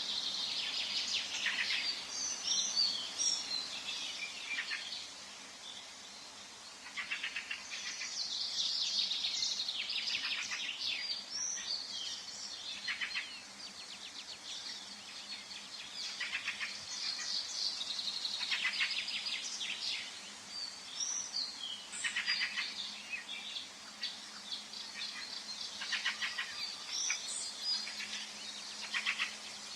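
Forest birds singing: high chirps and fast trills in short phrases that come every few seconds, several songs overlapping.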